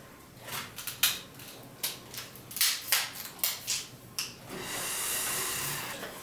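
Small objects being handled and set down while a desk is tidied: a string of light clicks, taps and knocks, followed about four and a half seconds in by a steady hiss lasting about a second and a half.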